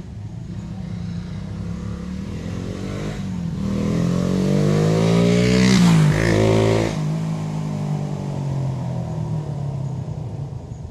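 Suzuki Raider 150 New Breed's single-cylinder four-stroke engine running through its stock, unmodified exhaust muffler. The engine note climbs in pitch and level to its loudest about six seconds in, then drops sharply and carries on at a lower, steady pitch.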